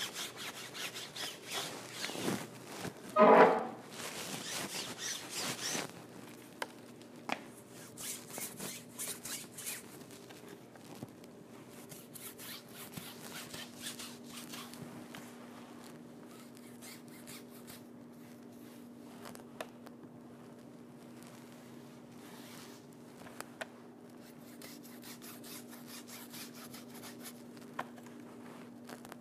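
Paintbrush scrubbing across a painted stage backdrop in quick rubbing strokes, with a brief loud squeak about three seconds in. The strokes stop about six seconds in, leaving scattered light taps and a faint steady hum.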